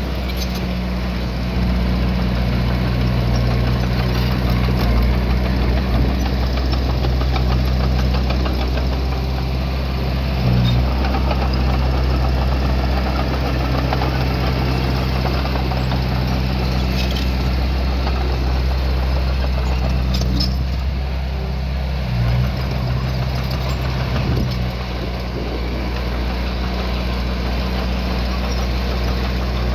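Small bulldozer's diesel engine running steadily, with a few faint clanks in the second half.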